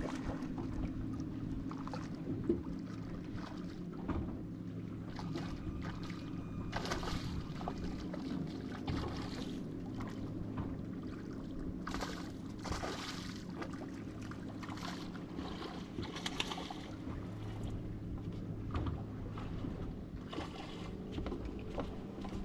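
Boat's outboard motor idling steadily, with several short bursts of noise over it.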